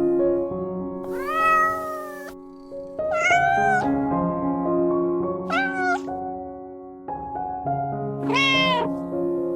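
A cat meows four times, each call bending in pitch, over background music of sustained, gently changing notes.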